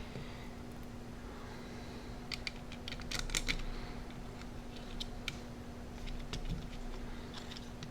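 Scattered light clicks and taps of a small screwdriver and screws being fitted into the plastic case of a Sharp Zaurus SL-6000D handheld, with a quick cluster about two to three and a half seconds in, over a steady low hum.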